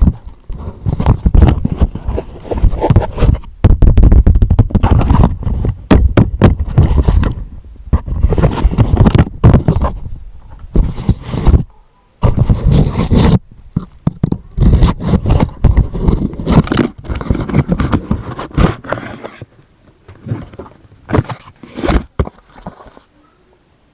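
Irregular bursts of scraping and rustling, on and off, thinning out near the end.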